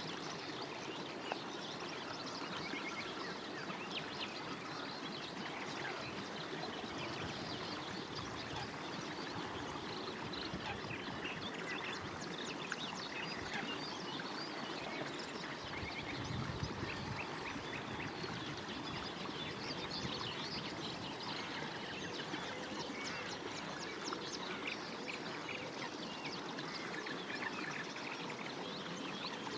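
A dense chorus of many birds calling at once on a pond, with ducks quacking among them, over a steady background hiss.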